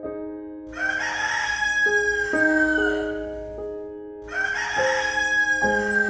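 Rooster crowing twice, each crow a long raspy call of about two seconds with a held pitch that falls slightly at the end, over soft piano music.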